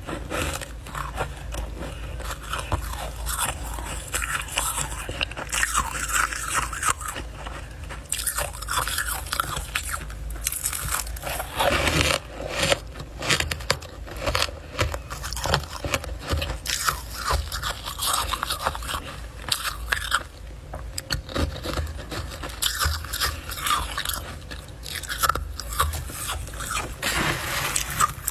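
Close-up biting and chewing of refrozen freezer frost, with many crunches and crackles throughout and some scraping.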